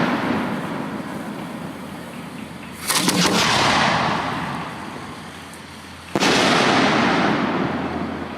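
Aerial firework shells bursting: two sharp bangs about three seconds apart, each followed by a few seconds of slowly fading noise.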